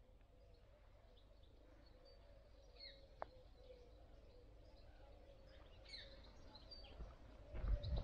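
Faint, scattered chirps of small birds singing in woodland, over a faint low hum. Near the end come a few louder low thumps close to the microphone.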